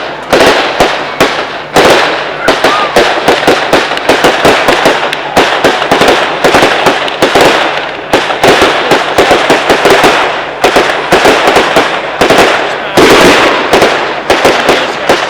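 Fireworks going off in a rapid, almost unbroken barrage of bangs and crackles, with heavier bursts about two seconds in and again about thirteen seconds in.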